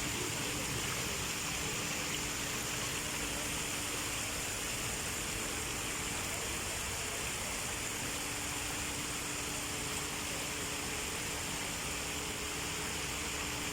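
Steady rush of flowing water, with a faint steady hum underneath that drops out for a couple of seconds around the middle.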